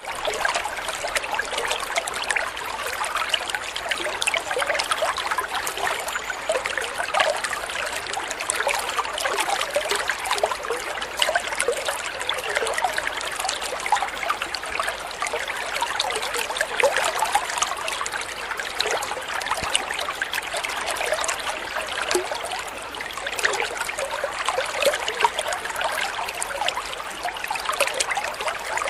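Flowing water babbling and trickling steadily, a constant bubbling splash with many small droplet sounds.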